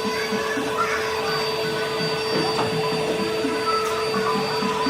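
Workshop machinery running with a steady hum, a constant mid-pitched drone over mechanical noise.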